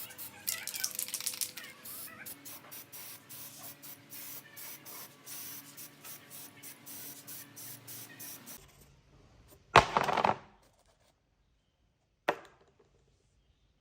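A quick, uneven series of short hissing bursts over a faint steady hum, then an abrupt break to near silence. One loud, longer burst follows about ten seconds in, and a single sharp click comes near the end.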